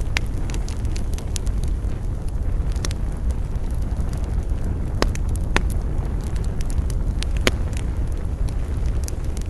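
Campfire burning, the wood crackling with scattered sharp pops, the loudest about seven and a half seconds in, over a steady low rumble.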